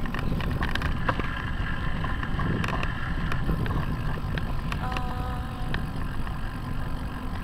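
Wind buffeting and road rumble picked up by a camera mounted on a bicycle's handlebars while riding, with scattered clicks and rattles from the mount. A brief faint tone comes in about five seconds in.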